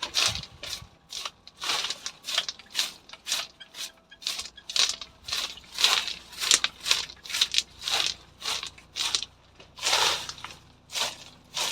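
Repeated crunching, rustling strokes, about one or two a second and uneven, from hands-on garden work in leafy vegetation.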